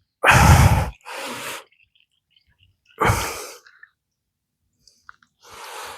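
A person's breath noises: a loud, sudden huff of breath soon after the start, then softer exhales about a second in, about three seconds in and near the end.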